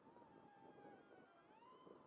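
Faint whine of the XK A110 MQ-9 Reaper RC plane's electric motor and propeller in flight, wavering in pitch and rising about three-quarters of the way in, over a low rush of wind.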